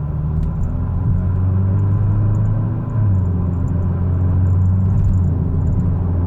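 Kia Stinger with an aftermarket NGM axle-back exhaust accelerating hard, heard from inside the cabin: a deep exhaust rumble climbing in pitch, dropping once about three seconds in at an upshift, then climbing again.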